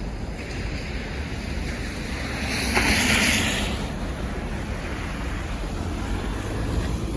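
Steady outdoor rushing noise with some wind on the microphone. About three seconds in, a vehicle passes on the road, its tyre hiss swelling and then fading over about a second and a half.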